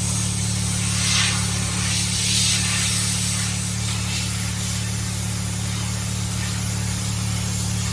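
Several short hissing squirts from a spray bottle, cleaner being sprayed onto a wheel rim, over a steady low hum.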